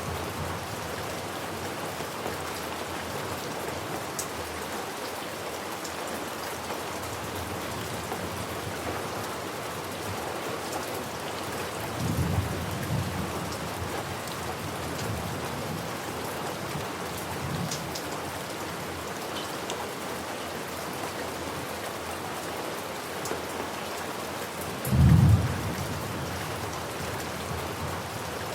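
Steady rain falling, with thunder rumbling low twice: once about halfway through and more loudly near the end.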